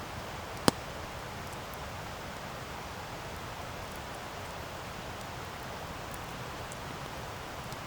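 Wood campfire burning with a steady hiss and faint scattered crackles, and one sharp loud pop a little under a second in.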